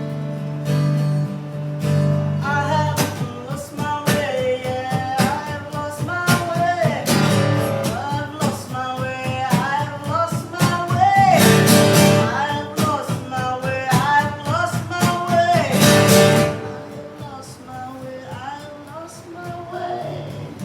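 Live acoustic music: strummed acoustic guitar with a voice singing a wordless melody over it, the voice dropping out about four seconds before the end and leaving the guitar alone.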